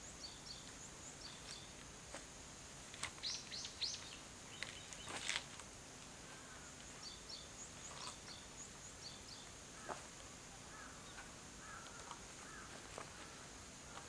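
Small birds chirping and calling: repeated short high notes, a run of quick falling whistles about three seconds in, and softer warbled notes near the end. A steady high-pitched tone runs underneath, and a few sharp clicks stand out about five seconds in.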